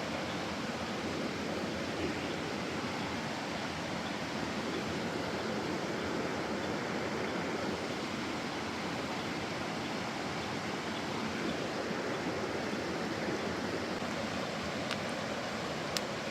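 Mountain stream rushing steadily over rocks, with a few sharp clicks near the end.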